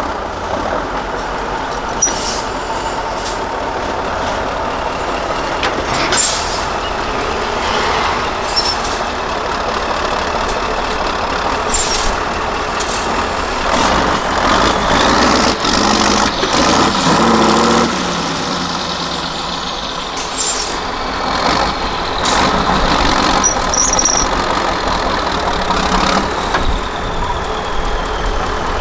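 Mercedes-Benz 8x8 trial truck's diesel engine running and revving up and down, loudest near the middle, with short sharp hisses or knocks every few seconds.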